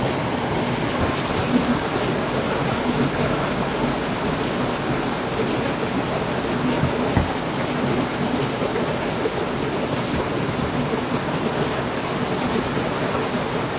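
Heavy rain falling steadily, a dense even hiss with no let-up, with a brief low knock about seven seconds in.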